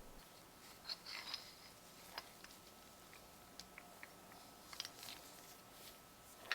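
Faint, irregular small clicks and taps of metal parts being handled, with a sharper click near the end, from the restored World War I time fuse.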